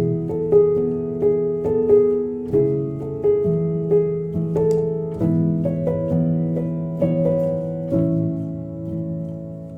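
Solo piano playing a calm neoclassical piece: gently struck notes, about two a second, sustained over held low bass notes.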